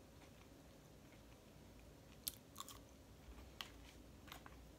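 Faint chewing of a mouthful of salad close to the microphone, with a few sharp clicks in the second half.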